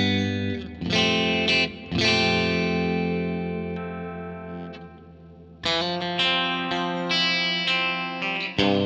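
J-Craft T-3VM electric guitar with Tonerider Hot Classics pickups, played through an amplifier: a few strummed chords, one left to ring and slowly fade for about three seconds, then quicker rhythmic chord strumming from about halfway.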